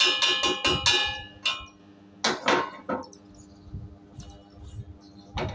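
Chipping hammer striking a steel fillet-weld joint, knocking slag off an E6013 weld. A quick run of ringing metallic strikes gives way to a few single strikes, then one more near the end.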